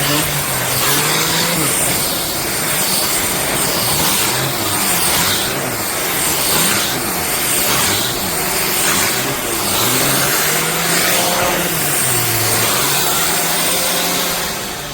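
Shark Stratos upright vacuum running with its motorised pet brush attachment, a loud steady whir whose pitch keeps rising and falling every second or two. It starts to wind down at the very end.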